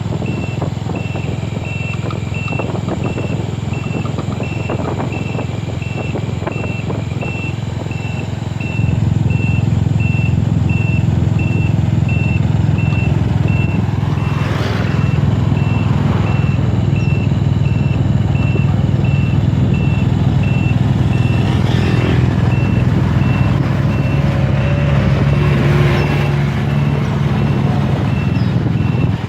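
A vehicle's reversing alarm beeping steadily at about two beeps a second, over a low engine rumble that grows louder about nine seconds in.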